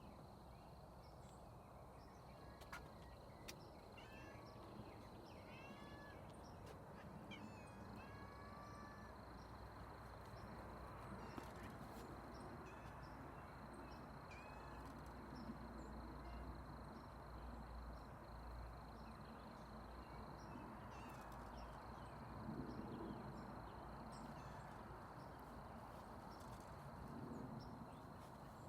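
Faint outdoor evening ambience: a steady high insect drone, with a bird chirping again and again over the first several seconds, and a few small clicks.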